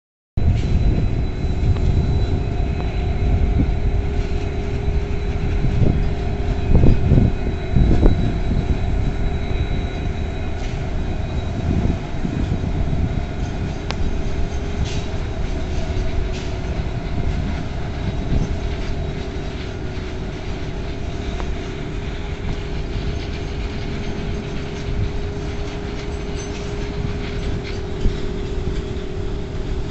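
Indian Railways WDG-4G diesel-electric locomotive hauling a goods train slowly past: a steady engine rumble and hum, then the covered freight wagons rolling by on the track. The sound is loudest about seven seconds in.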